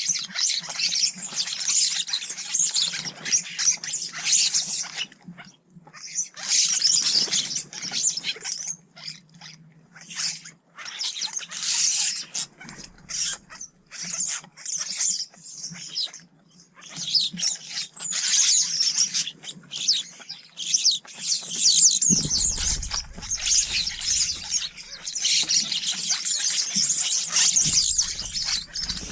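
Small garden birds chirping and twittering in busy bouts of high calls, each a few seconds long with short gaps between. A low rumble joins in about two-thirds of the way through.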